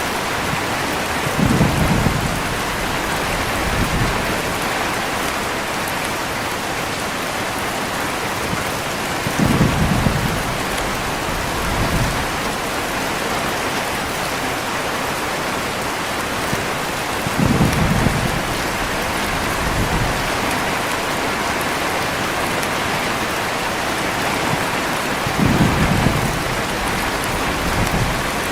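Steady heavy rainfall with short, low thunder rumbles that come about every eight seconds, four times, each followed by a fainter rumble a couple of seconds later.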